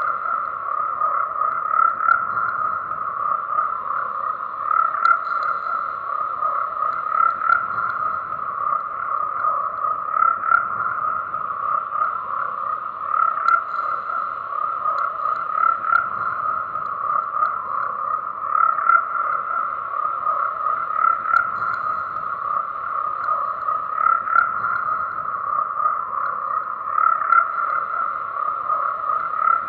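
A dense chorus of frogs croaking without pause, the calls swelling a little every few seconds.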